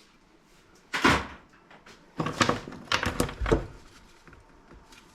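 A single knock about a second in, then a few seconds of knocking and clattering as scrap items are handled and dropped.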